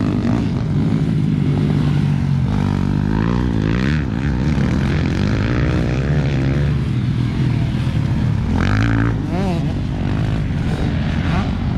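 Dirt bike engines running on a motocross track, their pitch rising and falling repeatedly as the throttle is opened and closed, with more than one bike heard at once.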